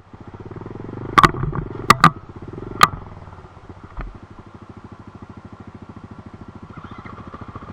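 Dirt bike engine running with an even, rapid pulsing, louder for the first three seconds and then settling to quieter steady running. Four sharp clicks in the first three seconds and a thump about four seconds in.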